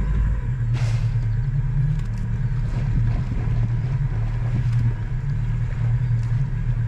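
Tour boat's engine running steadily with a low, even drone, with water and wind noise over it.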